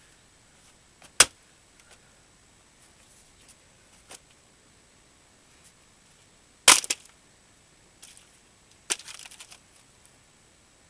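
An axe striking a dried larch log being split for firewood: two sharp, loud chops several seconds apart, a faint knock between them, and a quick clatter of knocks near the end.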